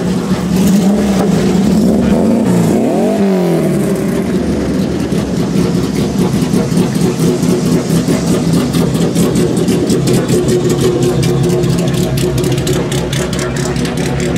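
Several Alfa Romeo and Fiat racing car engines idling together, with one engine revved briefly up and back down a few seconds in.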